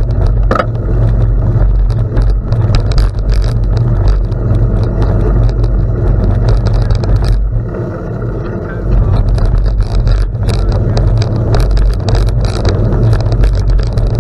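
Wind buffeting the microphone on a moving gravel bike, with tyres crackling over gravel and small clicks and rattles from the bike.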